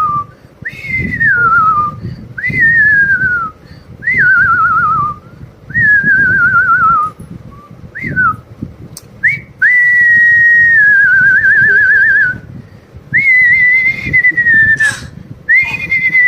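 Bird-like whistling: about eight clear whistled phrases, each leaping up and then sliding down in pitch with a fast warble, with one longer held note ending in a warble about ten seconds in.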